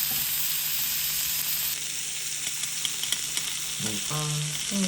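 Thin-sliced beef brisket sizzling in a hot pan, a steady hiss that eases slightly about two seconds in.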